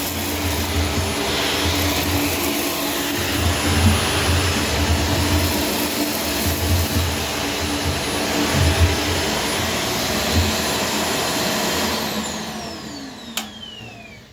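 Shark Stratos vacuum cleaner running steadily, then switched off near the end, its motor whine falling in pitch as it spins down, with a click as it stops.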